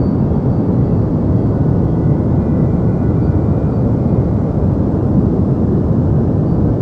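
Deep white noise: a steady, even low rushing hiss with most of its weight in the bass and little treble.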